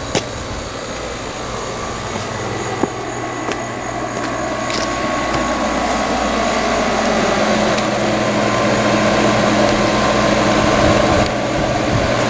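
Outdoor air conditioner condenser running: a steady compressor hum under the fan's rushing noise, loud enough to fill the yard, getting louder over the first several seconds.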